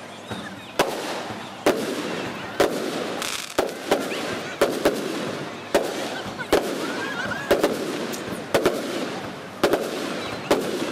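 Aerial firework shells bursting in a rapid run of sharp bangs, about one a second, with crackling between the reports. The audio is sped up to double speed.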